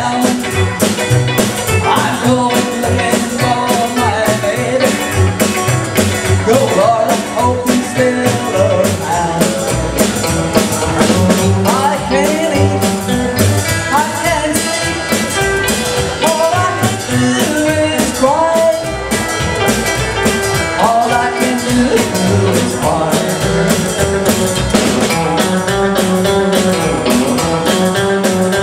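Live rock and roll band playing with electric guitar and drum kit, a steady beat running through.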